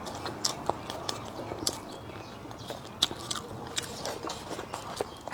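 A person chewing and biting food close to the microphone, with irregular crisp clicks and crunches.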